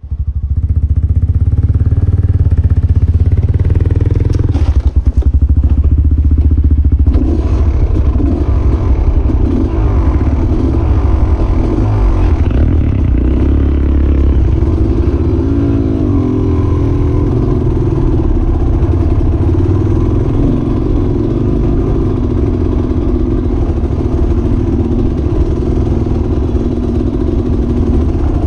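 Off-road motorcycle engine running under load as the bike is ridden through the river, its pitch rising and falling with the throttle, with some clatter.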